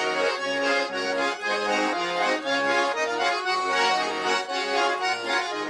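Russian accordions, bayan and garmon, playing an instrumental chastushka tune in chords between sung verses.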